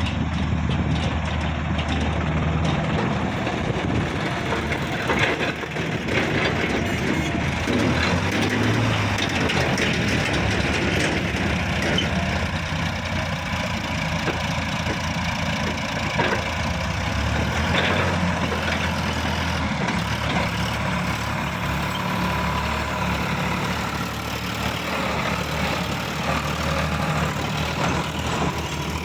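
Heavy diesel engine running steadily, with scattered clanks and knocks over it.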